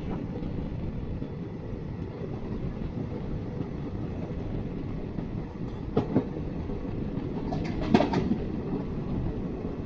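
Jan Shatabdi Express passenger train running on the track, its wheels rumbling steadily, with sharp clacks over rail joints about six seconds in and again around eight seconds in.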